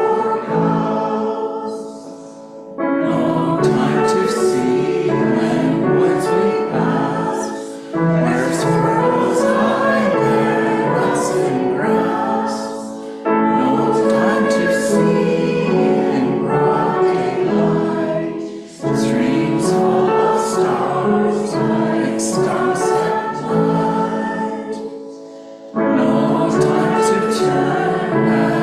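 Congregation singing a hymn in phrases of about five seconds, with short breaks between them.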